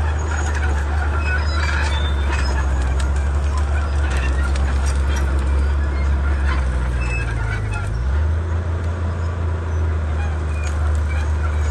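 Komatsu D31P bulldozer's diesel engine running steadily at a low pitch. The engine note rises a little around seven seconds in and dips about a second later. Short scattered clicks sound above it.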